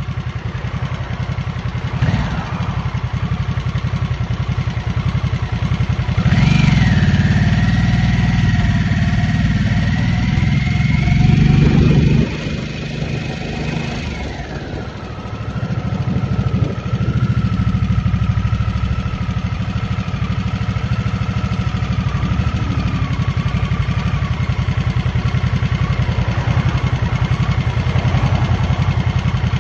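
2023 Harley-Davidson Nightster's 975 cc Revolution Max V-twin running while the bike is ridden. It gets louder under throttle from about six seconds in, backs off about twelve seconds in, then runs steadily again.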